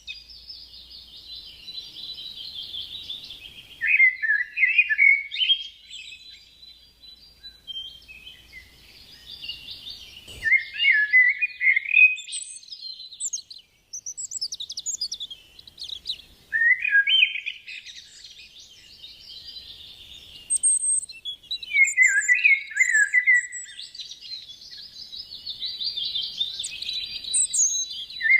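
Songbird singing: a phrase repeated every five or six seconds, each a high, dense trill followed by a run of lower, quick twittering notes, with brief pauses between phrases.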